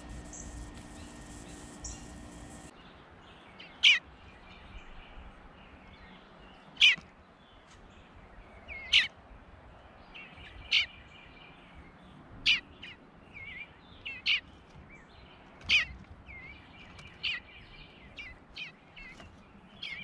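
Bird calling: about eight loud, sharp calls, each dropping in pitch, roughly every two seconds from about four seconds in, with softer twittering between them. Before the calls start there is only a faint steady high hum.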